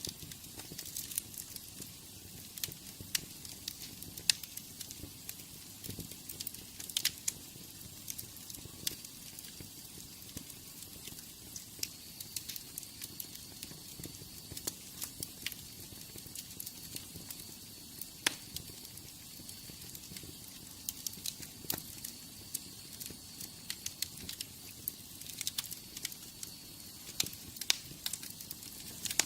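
Wood fire in a fireplace crackling: irregular sharp pops and snaps over a soft hiss. A faint high thin whistle runs through the middle stretch.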